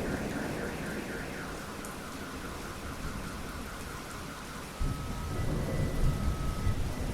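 Steady rain falling during a thunderstorm, with the tail of a roll of thunder fading away and a new low rumble of thunder building about five seconds in.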